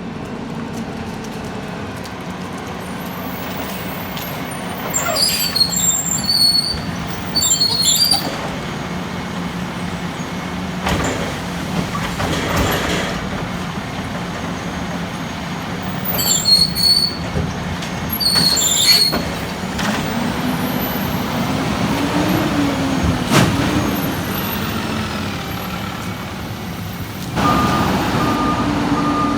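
Peterbilt 320 garbage truck with a Labrie Automizer side-loader body running, its diesel engine humming steadily. Two clusters of sharp air hisses with high squeals come through, and the engine revs up and back down as the truck works. Near the end it gets louder and an intermittent high beep starts, typical of a reversing alarm.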